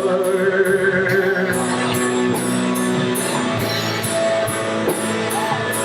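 A live band playing an instrumental passage of a worship song: guitar strumming over a steady beat, with sustained held notes.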